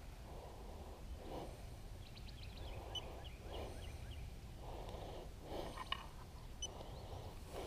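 Kayak paddle strokes in the water, a soft swish about once a second, over a steady low rumble. A short run of faint high ticks comes a little over two seconds in.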